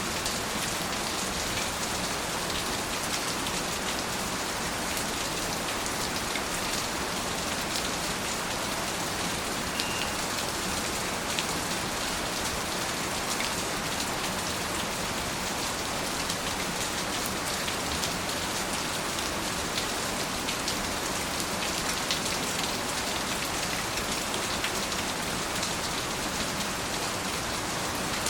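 Steady rain, an even hiss of falling rain with many fine individual drops ticking on a surface.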